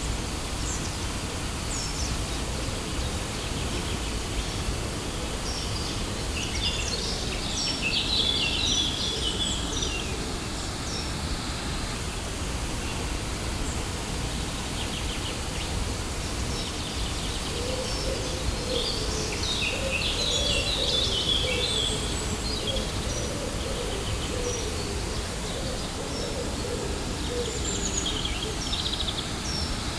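Steady rush of a waterfall with birds chirping over it in flurries, around eight seconds in, again around twenty seconds, and briefly near the end.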